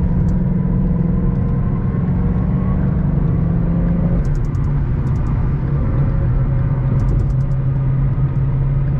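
Ford Mustang GT's 5.0-litre V8 running at low, steady revs on the move, heard from inside the cabin. About four seconds in the engine note drops to a lower steady pitch. A few faint ticks come in the second half.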